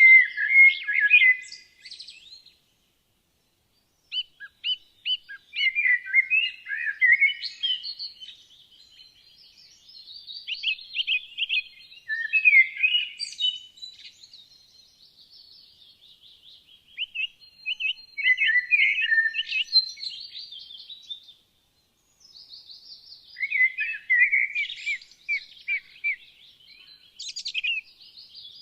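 Songbirds singing: short, busy song phrases of a few seconds each, broken by brief pauses, with a thin sustained whistle in the middle.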